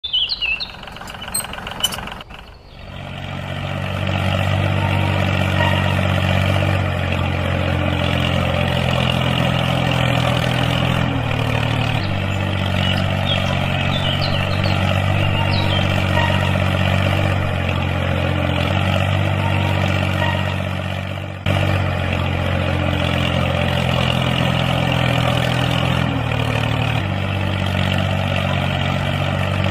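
Small electric gear motors of a homemade model tractor running with a steady hum and gear noise. The motor sound comes up after a few clicks about two to three seconds in, and its pitch shifts slightly a few times.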